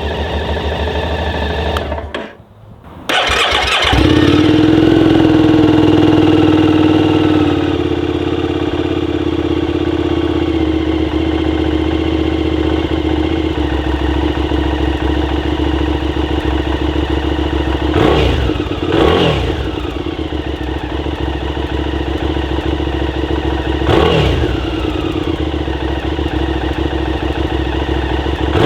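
QJMotor SVT 650X motorcycle engine and exhaust. After a brief quiet gap it starts about three seconds in and runs at a fast idle, then settles to a steady idle a few seconds later. It is blipped twice with short revs, around the middle and about two-thirds of the way through.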